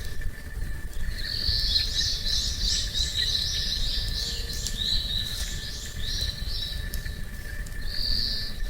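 A small songbird singing a quick run of high chirping notes for about five seconds, then a short phrase near the end, over a faint steady insect tone.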